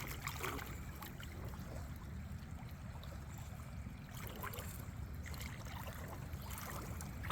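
Shallow creek water running and trickling, with a steady low rumble underneath and a few faint ticks.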